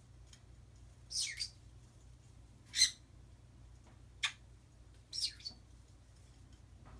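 Pet birds giving short, high-pitched calls and chirps, about five brief calls roughly a second apart, the loudest a little before the middle.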